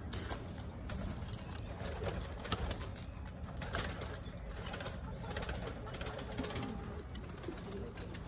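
Domestic pigeons cooing in a loft, with scattered sharp clicks and knocks over a steady low rumble.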